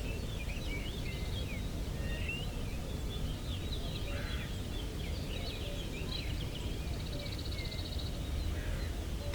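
Small birds singing and calling, with many quick chirping notes and a short rapid trill about three-quarters of the way through, over a steady low background rumble.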